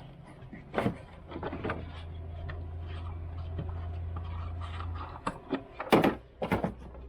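Scattered clinks and knocks of hand tools being picked up and handled, the loudest a little before the end, over a steady low hum that starts about two seconds in and stops about three seconds later.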